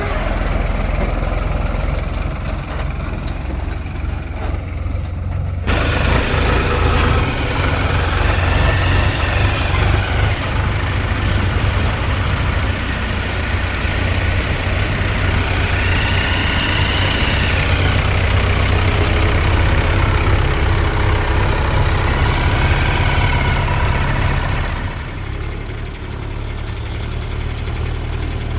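JCB 3DX backhoe loader's diesel engine running at work. About six seconds in it gets louder and busier, a whine rising and falling three times as it works under load, then it drops back to a quieter idle near the end.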